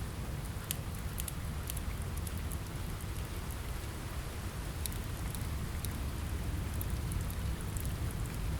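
Steady rain on a window mixed with the scattered sharp snaps of a crackling fire, over a low steady rumble.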